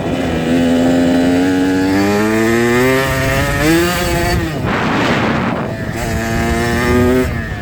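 Dirt bike engine accelerating through the gears, its pitch climbing and then dropping back at each shift. There is a short rush of noise about five seconds in, and then the engine holds a steady pitch.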